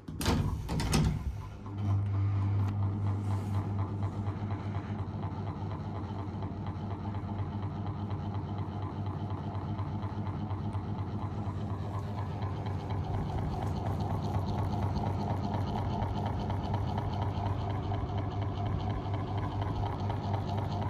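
GMC 800 mm mini ceiling fan's motor, started with a couple of sharp clicks in the first second, then running with a steady electrical hum. A rushing band of noise grows from about halfway through as it spins up.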